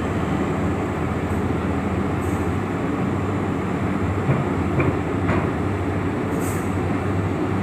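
Heavy truck's diesel engine labouring steadily under load as it climbs a steep ramp.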